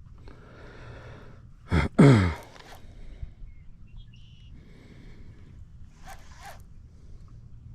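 A short, loud vocal sound from a person, like a gasp or grunt, falling in pitch about two seconds in, with fainter hissing and small sounds around it.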